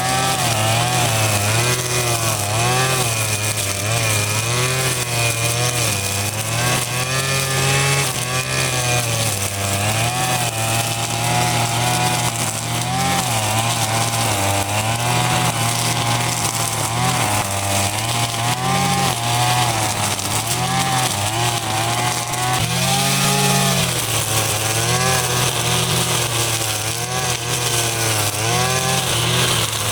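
Small engine running continuously, its pitch wavering up and down.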